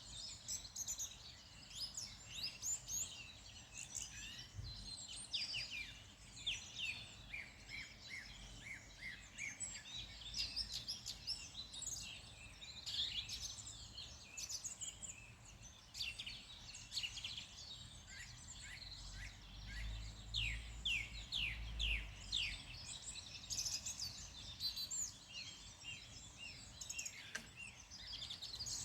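Several songbirds chirping and singing at once, a dense chorus of quick, overlapping high notes, many of them short falling sweeps. A faint low rumble rises for a few seconds about two-thirds of the way through.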